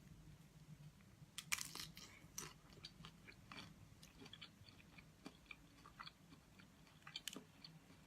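A person chewing skewered shrimp close to the microphone: a dense run of crisp crunches about a second and a half in, then scattered smaller crunches and mouth clicks.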